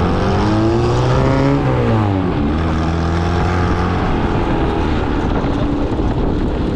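Reliant 700 cc four-cylinder engine in a home-built special, revved up so its pitch climbs for about a second and a half, then drops back and settles into a steady run.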